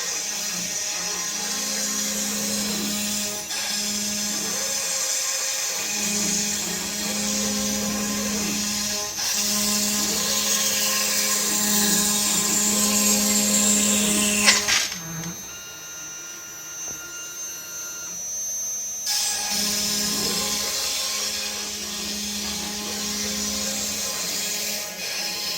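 CNC router cutting wood: the spindle runs with a high whine and cutting noise while the axis motors whine up and down in pitch as the machine moves back and forth. About fifteen seconds in the cutting noise drops away for a few seconds, then starts again.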